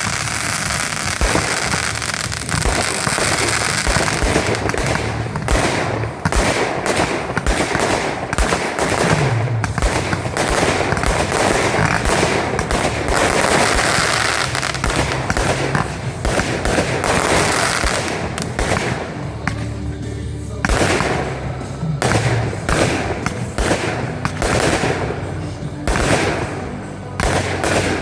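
Fireworks display: a dense barrage of bangs and crackling that thins into separate reports in the last third.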